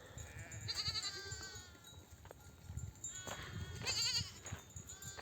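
Sheep bleating: two loud quavering bleats, about a second in and again around four seconds in, with fainter bleats between, as ewes call to their lambs.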